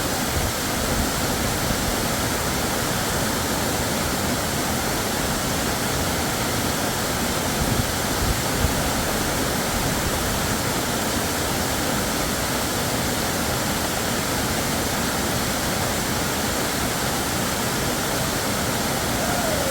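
Waterfall pouring: a steady, dense rush of falling water close to the microphone.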